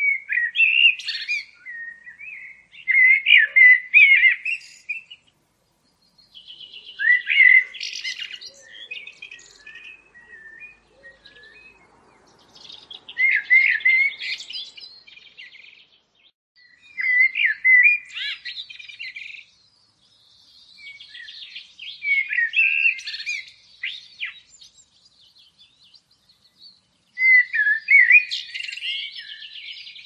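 A bird singing: short phrases of quick chirps, repeated every four or five seconds.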